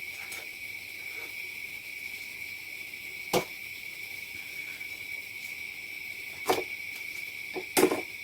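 Kitchen utensils knocking sharply a few times, once about three seconds in and again twice near the end, over a steady high hiss.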